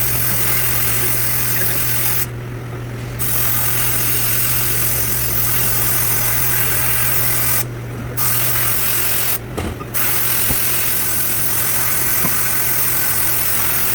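Abrasive sandblasting: a loud, steady hiss of compressed air and blast media that stops three times for a moment as the trigger is let off. A steady low hum from the running machinery continues through the pauses.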